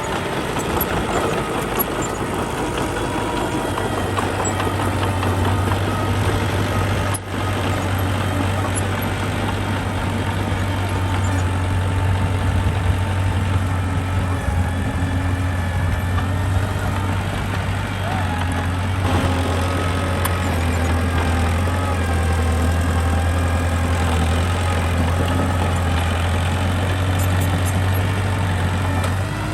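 Diesel engine of a working construction machine running steadily, with a strong low hum and a brief break about seven seconds in.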